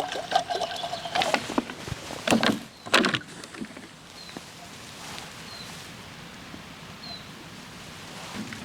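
Wood creaking for about a second, then two sharp knocks, as logs are handled. A few faint short high bird chirps follow in the quieter second half.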